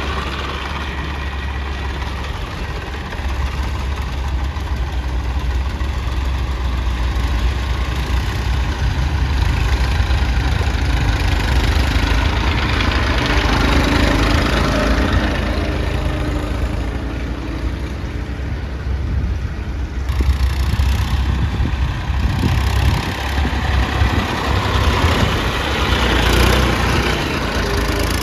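Heavy diesel machinery engine running steadily, with its sound swelling louder a few times as it works. There is an abrupt shift in the sound about twenty seconds in.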